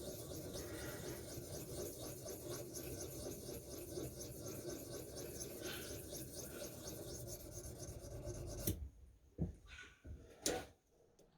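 Small diamond hone rubbed along the steel edge of a splitting maul in quick, even strokes, sharpening it. The stroking stops suddenly near the end, followed by a couple of light knocks.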